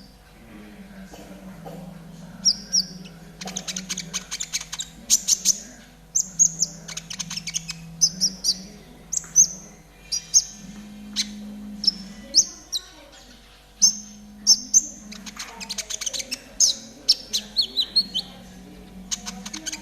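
Konin trotol songbird singing: a busy string of short, high chirps and fast rattling trills with brief pauses between phrases, played as a masteran recording used to train caged birds to sing.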